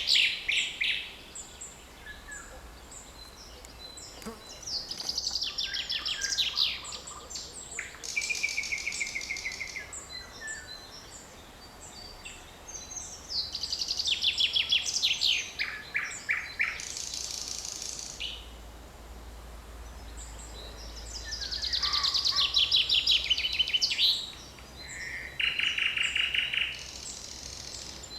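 Songbirds singing: short, high trilled phrases of two to three seconds, falling in pitch and repeated every few seconds, with a second, steadier trill twice.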